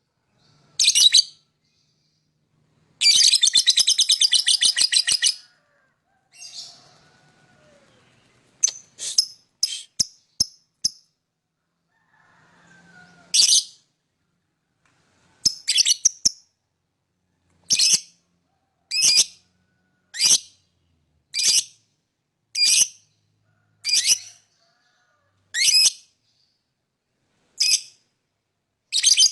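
Lovebird calling. A long, rapid, chattering trill comes about three seconds in, then a few quick chirps, then a run of single high-pitched chirps about one to one and a half seconds apart.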